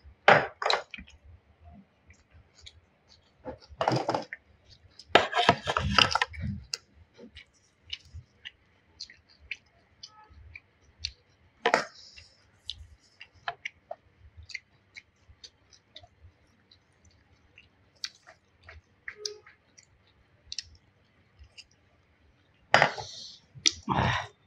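A person eating: chewing and wet mouth sounds coming in separate bursts, with scattered small clicks between them.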